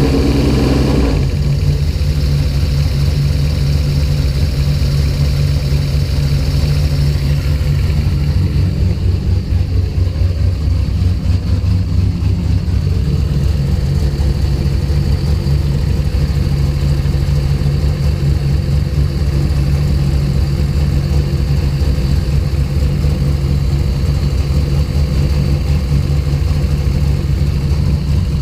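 Fuel-injected car engine running at idle after a hard start, settling from a brief rev about a second in to a continuous low idle.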